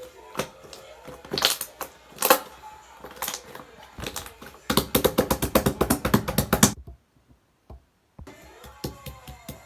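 Slime being squeezed and pressed by hand, making sticky popping clicks: scattered pops at first, then a quick run of many clicks in the middle, broken off by about a second of dead silence before the pops start again.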